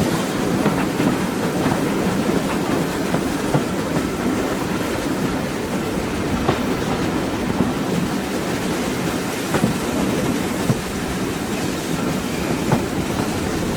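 Railway carriage running along the track: a steady rumble, with a sharp click every few seconds as the wheels cross rail joints.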